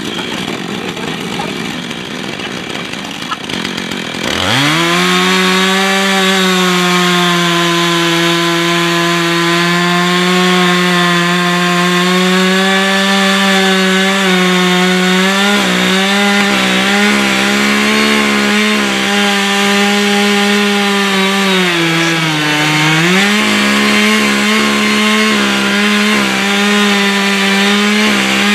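Husqvarna chainsaw cutting wood. About four seconds in it goes from a rough lower running to full throttle, a steady high engine note. Around 22 seconds in the pitch sags as the saw bogs under load, then picks back up.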